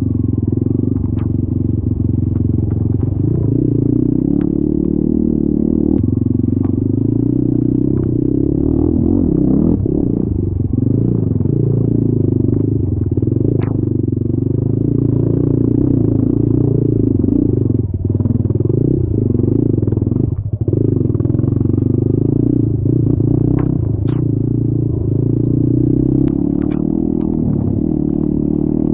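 Off-road vehicle engine running steadily under load, with scattered clatter and sharp knocks over rough ground.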